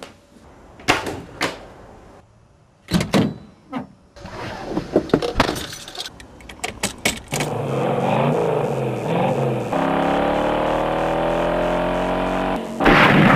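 Several knocks and clicks, then a car engine starts about seven seconds in and runs, its pitch climbing steadily as it accelerates. A loud burst of noise comes near the end.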